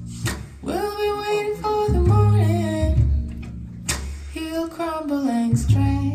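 Recorded music playing through Magico A5 loudspeakers: a woman's sung melody in two long phrases over plucked acoustic guitar and a deep bass line.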